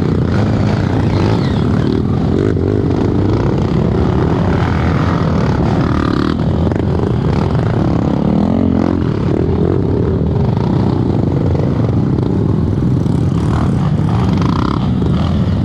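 Dirt bike engine running continuously under load, its revs rising and falling somewhat about halfway through.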